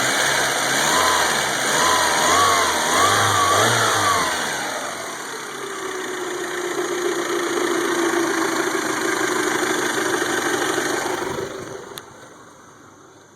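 1992 Toyota Camry four-cylinder engine running unevenly, its pitch surging up and down for the first few seconds, then holding a steadier, slowly sinking note before it stops about eleven seconds in, followed by a single click. The stumbling is the misfire that the owner traced to weak spark from a corroded distributor cap and rotor.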